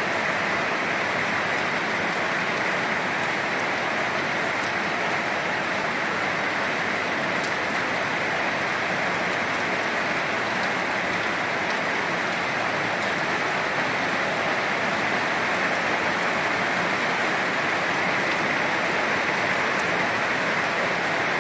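Steady rain falling, an even hiss that holds constant with no breaks.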